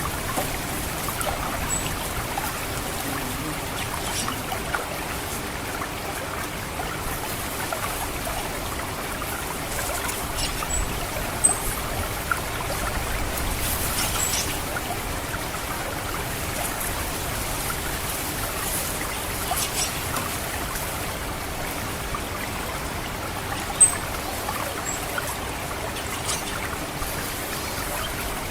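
Paddy-field water trickling steadily, with a few brief, very high 'cit' call notes of an orange-headed thrush dotted through. The clearest notes come about a third of the way in and again near the end.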